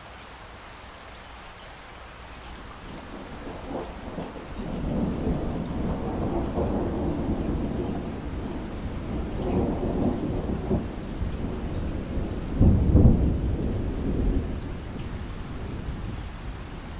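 Steady rain with a long roll of thunder that builds from about three seconds in, peaks in a sharp loud clap near the end, and dies away.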